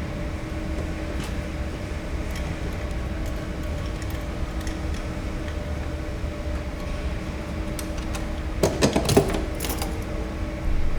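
Hand tools clicking against metal fittings while the copper lines come off a fryer's fire-suppression bottle, with a short clatter about nine seconds in, over a steady hum.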